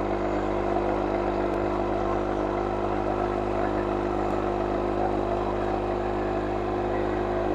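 TVS XL moped engine running at a steady pitch under load as it labours up a slope it can barely climb.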